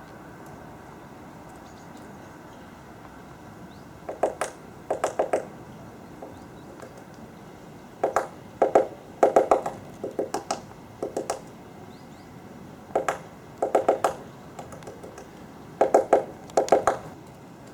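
Great spotted woodpecker pecking in short bursts of rapid blows, several quick strikes per burst, with pauses of a few seconds between groups of bursts.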